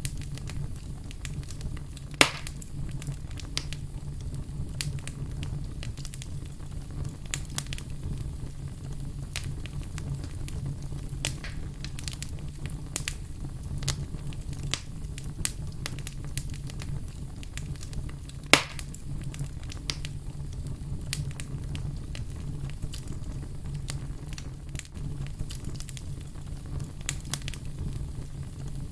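Fire crackling, with many scattered sharp snaps and two much louder pops, one about two seconds in and one about two-thirds of the way through, over a steady low rumble.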